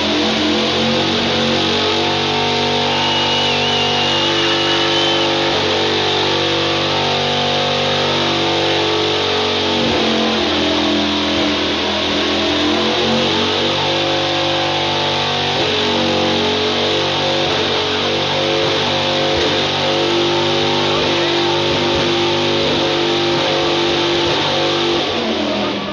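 A 2003 Cadillac DeVille's 572-cubic-inch V8 doing a long burnout: the engine is held at high revs, its pitch stepping up and down repeatedly, with the rear tyres spinning and smoking under a steady hiss. The engine is let off near the end.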